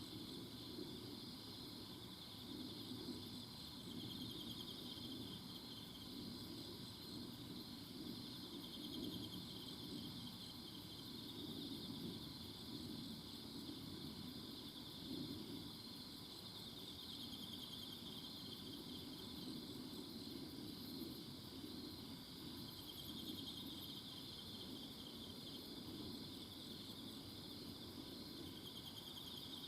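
A chorus of insects trilling steadily in a forest, a dense high-pitched pulsing drone with fainter higher chirps coming and going. A faint low rumble runs underneath.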